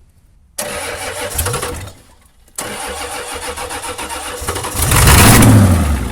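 Ford 7.3 IDI diesel engine being cranked over by its starter in two tries: a burst of about a second and a half, a short pause, then a longer one that swells much louder with a rushing sound near the end before dying away.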